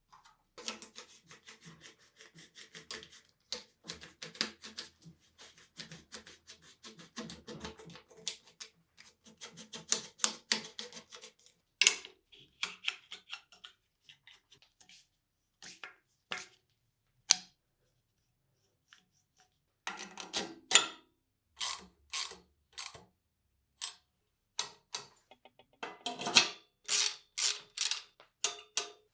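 Hand work on bicycle parts: irregular runs of small clicks, taps and rubbing, with a few sharper single clicks in the quieter middle stretch.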